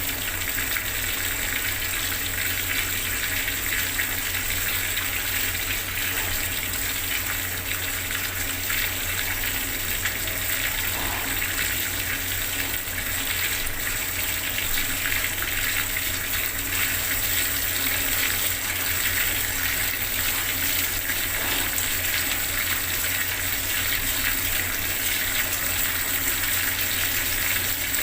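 Water running steadily from a bathroom tap, a full continuous gush splashing below.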